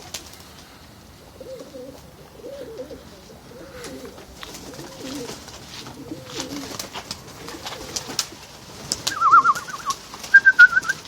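Racing pigeons cooing over and over in low phrases, with scattered sharp clicks. Near the end come two short, rapid trilling calls at a higher pitch, the loudest sounds here.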